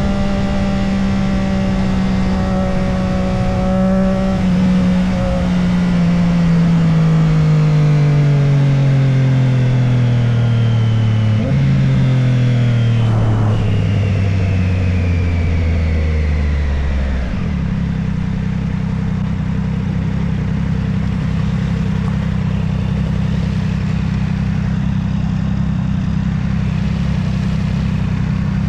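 Motorcycle engine holding a steady speed, then slowing with its pitch falling. About halfway through, the pitch jumps up briefly as it shifts down. It settles into a steady idle for roughly the last ten seconds.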